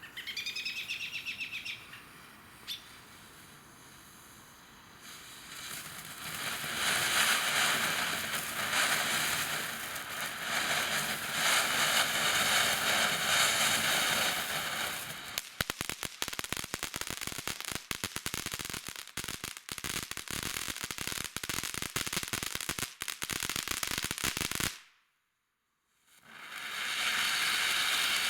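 Cannon Brand 'Prank Box' consumer firework going off: a steady spraying hiss builds up, then turns to dense crackling about halfway through. The sound cuts out for about a second near the end, then the hiss returns.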